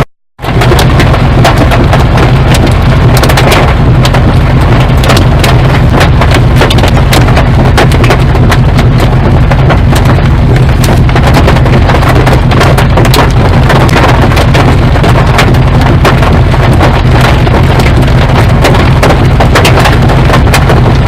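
Large hail, about 1.5 inches across, pounding on a vehicle in a dense, continuous barrage of loud, irregular knocks over a steady low rumble, after a split-second gap at the start.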